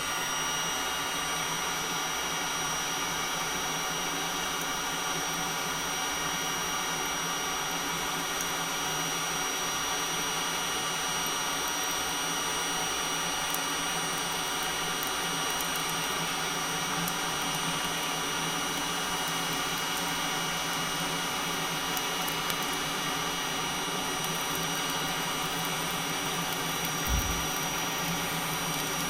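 Looftlighter electric charcoal lighter running steadily, its fan blowing superheated air with a constant whir and hiss into lump charcoal to light it. A single low thump comes near the end.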